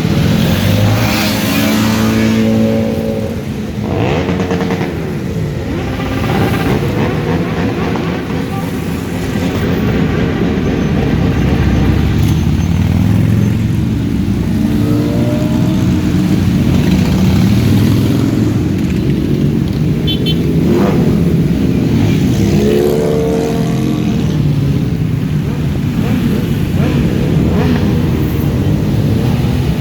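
Many motorcycle engines running together as a procession of bikes rides by, with overlapping engine notes repeatedly rising and falling as riders rev and accelerate.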